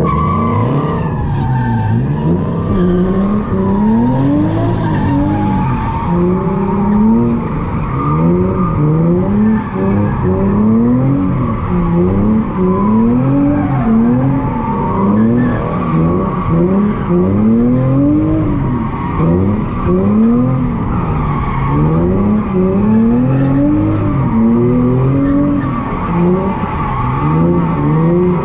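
Nissan 350Z's V6 through a Tomei exhaust revving up and falling back over and over, about every one and a half seconds, with tyres squealing throughout as the car drifts.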